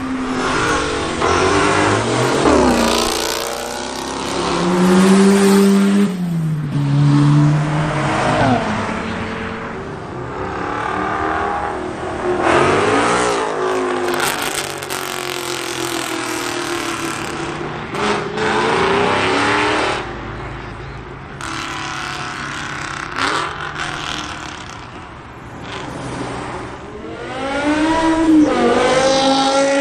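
Cars accelerating away one after another, each engine revving up in rising sweeps, dropping in steps between gears, then fading as the car passes and leaves.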